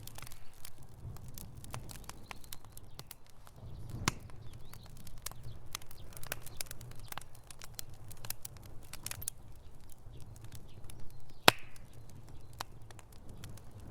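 Wood fire in a fireplace crackling: irregular sharp pops and snaps over a low rumble of the flames, with one especially loud pop late on.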